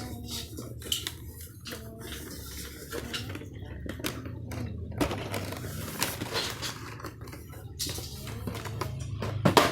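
Hot Wheels cars in plastic blister packs being handled and shuffled out of their cardboard case: an irregular clatter of light plastic clicks and knocks, with a louder knock near the end, over a steady low hum.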